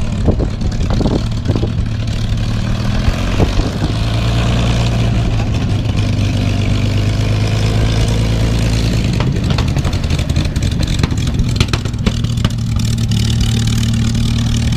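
Aircraft engine running at a steady low note as a plane taxis in on the ramp.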